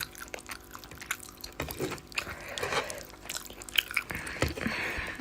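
Eating sounds close to the microphone: chewing and mouth noises made up of soft, irregular clicks and smacks.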